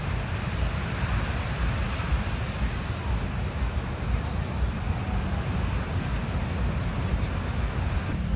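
Wind buffeting the microphone as a steady low rumble over the wash of ocean surf on a beach.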